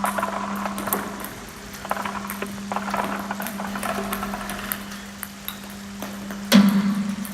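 Improvised experimental performance on homemade instruments: a steady low drone runs under scattered metallic pings and taps. A louder, denser burst of sound comes in near the end.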